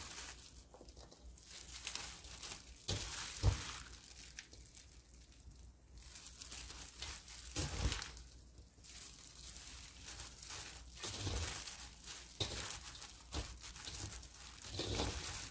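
Hands tossing and mixing cut garlic chives with chili-powder seasoning: intermittent rustling and crinkling, with a soft thump about three and a half seconds in and another about eight seconds in.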